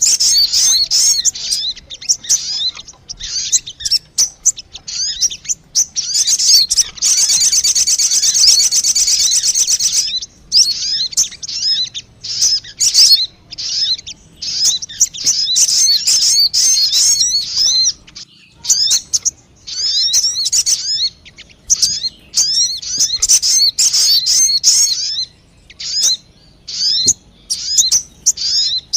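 Sogon bird lure call: rapid, high-pitched chirps and twitters in short bouts with brief gaps, and a dense unbroken trill for about three seconds starting about seven seconds in. It is a trapper's lure recording, played to draw wild birds of the same kind in.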